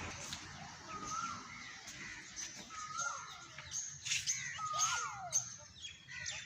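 Birds calling: three drawn-out calls about two seconds apart, each sliding down at the end, with quick high chirps in between.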